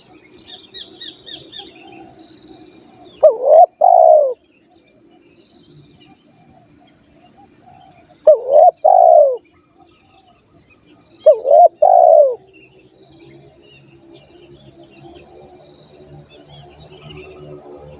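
Spotted dove cooing: three loud coo phrases, each a quick short note followed by longer falling coos, about five and three seconds apart. A continuous high insect buzz and faint small-bird chirps run underneath.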